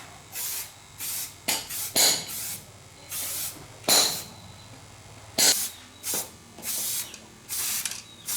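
A spray hissing in a quick series of short bursts, each about half a second long, a few of them starting with a sharp pop.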